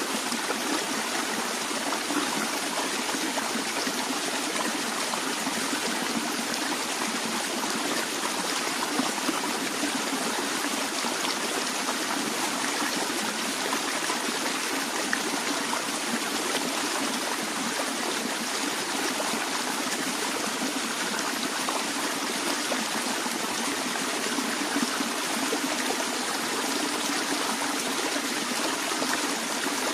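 A small stream flowing and trickling steadily over stones, an even babbling rush of water without a break.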